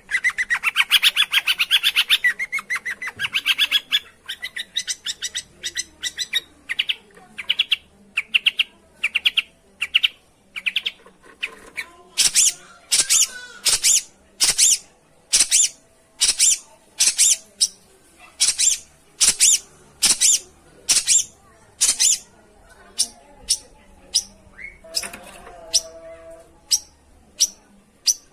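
Long-tailed shrike calling. It opens with a fast, dense chattering run of notes, then settles into a long series of harsh, scratchy single calls, about one to two a second, spacing out near the end.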